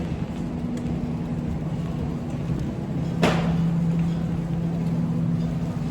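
Car running with a steady low engine and road hum. A single sharp click about three seconds in.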